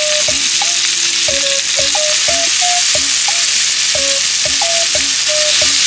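Chicken and sliced onion sizzling in sesame oil in a hot frying pan, a steady spitting hiss, as they are stirred with chopsticks.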